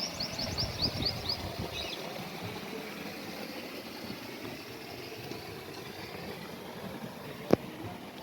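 Old Ruston Hornsby diesel oil engine running with a low, steady beat that is strongest for the first two seconds. A quick series of high chirps comes early on, and one sharp click comes near the end.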